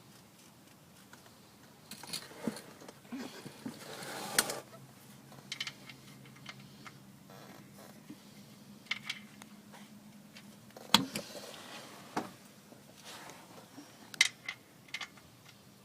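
Scattered metallic clinks and knocks of a socket and wrench being worked on a car's oil drain plug, with a faint steady low hum starting about four seconds in.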